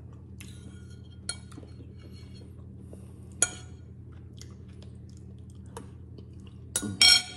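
Close-up chewing of a mouthful of chicken soup, with a metal spoon clinking against the bowl a few times; the loudest clink, near the end, rings briefly.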